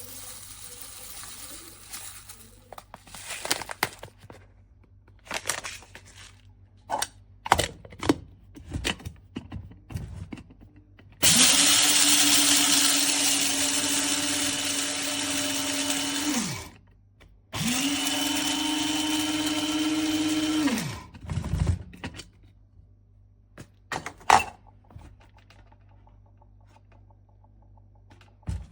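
Amazon Basics electric blade coffee grinder's motor running in two steady pulses, the first about five seconds and the second about three, each winding down when released. Clicks and knocks of handling the grinder come before and after.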